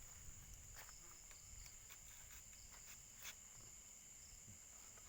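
Quiet outdoor ambience: a steady, faint, high-pitched insect drone, with a few soft clicks, the clearest about three seconds in.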